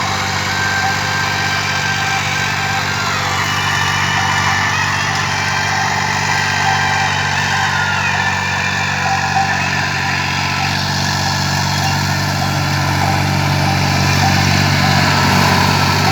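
New Holland 3630 tractor's diesel engine running steadily, getting slightly louder near the end.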